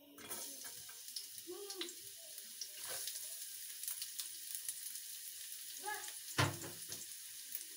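Chopped onion and garlic frying in hot ghee, a steady sizzling hiss. A single dull thump comes near the end.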